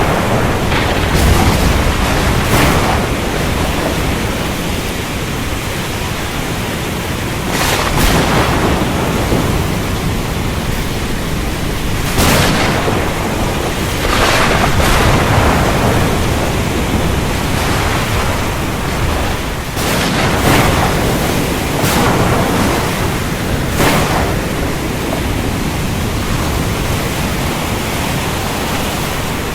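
Thunderstorm: heavy rain in a steady, dense hiss under a low rumble, broken by repeated sharp thunder cracks every few seconds.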